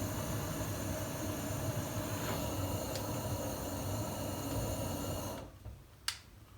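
Freshly lit wood fire in a Jotul F 373 stove, drawing hard through its door left open a crack: a steady rushing of fire and draft that cuts off abruptly about five seconds in, followed by a faint click.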